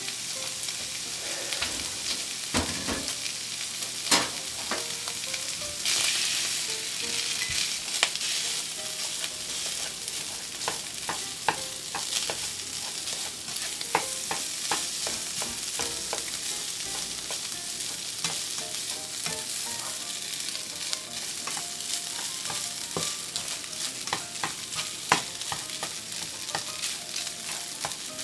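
Food sizzling in a frying pan as it is stirred, with a steady hiss and the spatula clicking and scraping against the pan many times. Louder knocks come about 4 s in, about 8 s in and near the end.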